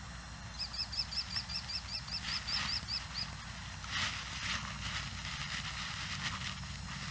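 A bird calling a quick run of about a dozen identical high chirps, about five a second, lasting under three seconds. Under it, irregular crunching and rustling steps along a woodland trail and a steady low rumble of movement on a chest-worn camera's microphone.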